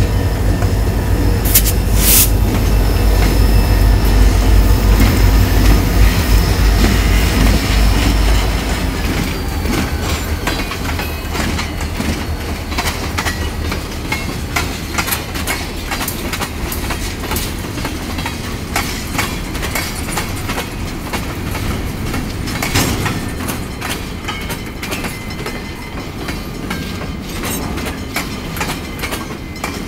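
CSX diesel freight train passing close by at a grade crossing. A deep, loud rumble dominates the first eight seconds or so as the locomotives go by, then it gives way to the steady clatter and clicking of freight-car wheels over the rail joints and crossing, with a few sharper knocks.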